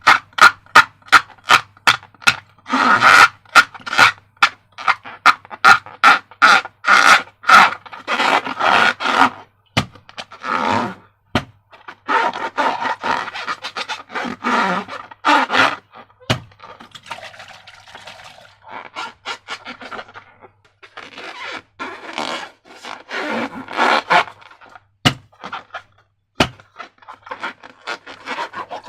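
Sticky slime being worked by hand: a rapid run of wet clicks and squelches, slowing after about ten seconds into irregular squishing bursts with occasional sharp clicks.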